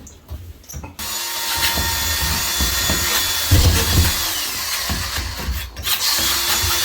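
A power tool starts about a second in and runs steadily, dropping out briefly near six seconds before running on.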